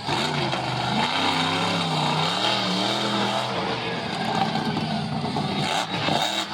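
Monster truck engine revving, its pitch rising and falling over and over.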